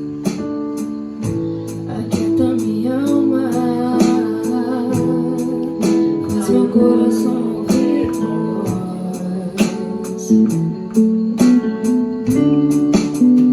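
Live church band playing a slow worship song: guitar and keyboard holding sustained chords, with drum and cymbal strokes throughout.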